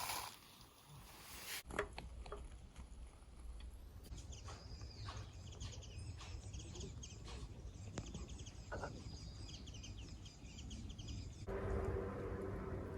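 Small birds chirping, with short high calls repeating over several seconds against quiet outdoor ambience.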